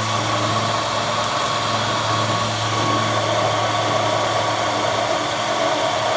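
A machine tool's electric motor running steadily, a constant low hum under an even whirring noise.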